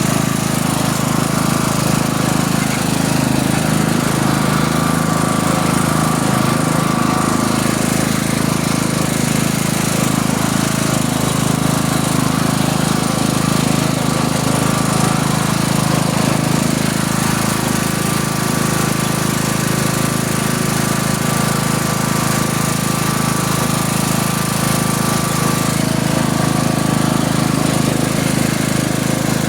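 Tractor engine running steadily at a constant speed, with a fast, even, rough pulse.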